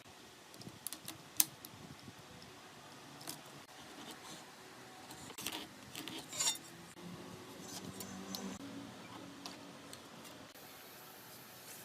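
Scattered light clicks, taps and small metallic clinks of hand tools or hardware being handled, with one sharp click about a second and a half in and a short low scraping squeak near the middle.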